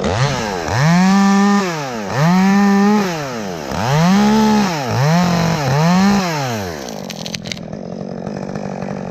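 Chainsaw revved up to full throttle five times in a row, each rev held for about a second before the engine drops back, then settling to a low idle near the end.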